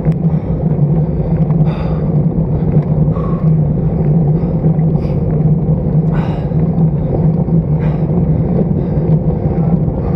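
Steady wind rumble and road noise on the microphone of a bicycle-mounted action camera while riding, with a constant low drone throughout.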